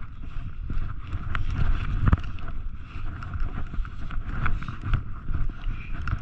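Wind and handling noise rumbling on a GoPro's microphone, with a few knocks and bumps about one and two seconds in.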